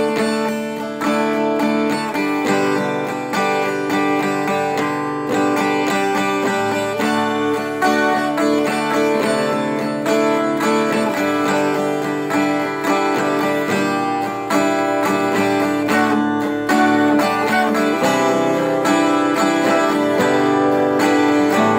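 Guitar played solo, strumming and picking a light, upbeat tune on D, C and G chords, with a steady stream of struck notes ringing over one another.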